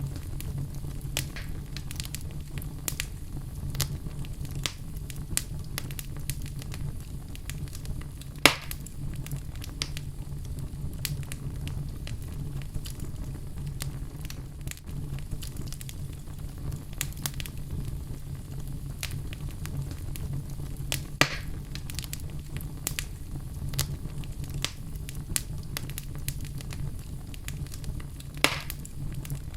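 Fire burning in a fireplace: a low steady rumble under constant small crackles, with three louder pops, about a third of the way in, about two-thirds in and near the end.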